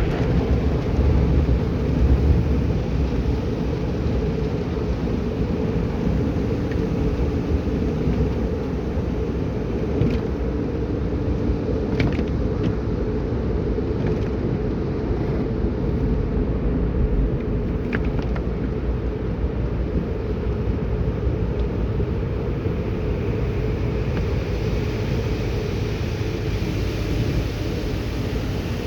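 Automatic car wash running: a steady low rumble with a few sharp clicks, and a hiss that grows in the last few seconds.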